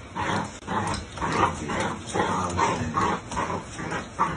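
Ten-week-old pit bull puppy giving a rapid series of short, high calls, about two to three a second.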